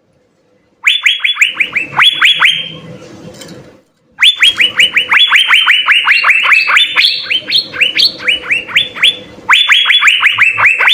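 Cucak biru (Asian fairy-bluebird) singing: rapid runs of sharp, downward-sliding whistled notes, about six a second, in three loud bursts after a moment's silence.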